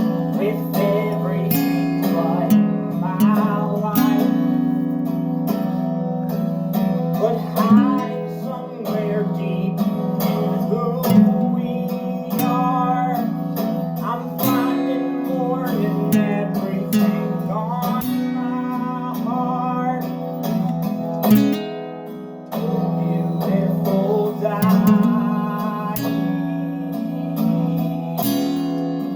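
Music: strummed acoustic guitar with a melody line bending in pitch above it.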